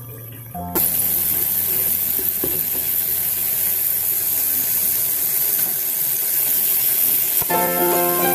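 Potato chips deep-frying in a pan of hot oil, a loud steady sizzle that cuts in suddenly about a second in. Background music fades out at the start and comes back in near the end.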